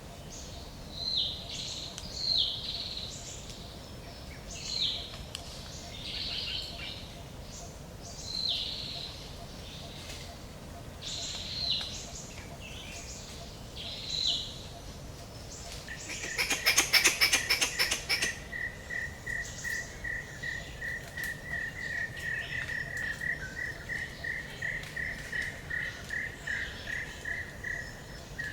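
Forest birdsong: one bird repeats a short, high, downward-sliding call every second or two. About halfway through, a loud rapid rattle lasts about two seconds. After it comes a long series of quick repeated notes, a few a second, that swells and then fades.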